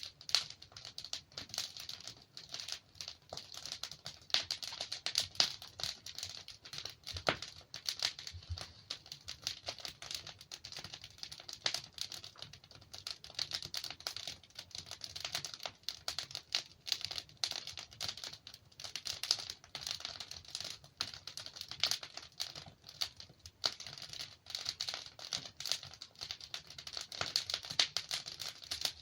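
Wood fire burning in a fireplace: dense, irregular crackling with frequent small pops from the burning logs.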